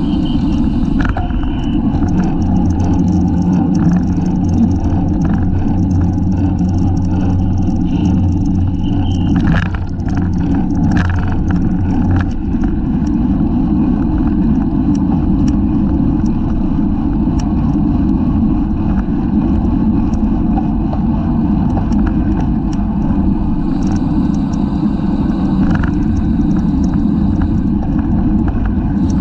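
Wind rushing over the microphone of a bicycle-mounted camera at race speed, a dense, loud, steady rumble. A steady low hum runs underneath from a couple of seconds in until about twelve seconds in, then stops.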